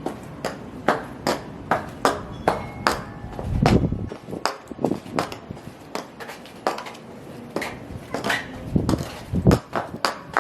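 High-heeled shoes clicking sharply on a hard surface, about three heel strikes a second, with heavier low thuds of stomping about three and a half seconds in and again near nine seconds.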